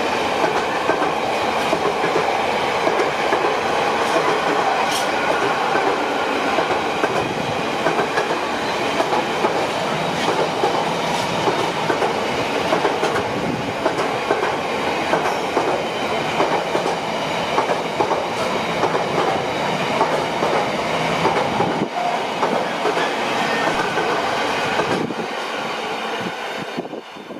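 Long freight train's wagons rolling past, a steady loud rumble and rattle of wheels on rail with some clickety-clack, dropping away in the last second or so as the end of the train goes by.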